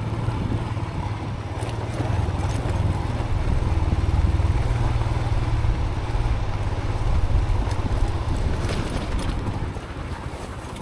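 Motorcycle riding over a rough dirt track, its engine rumbling under wind buffeting on a chin-mounted helmet camera. The sound eases off near the end as the bike slows.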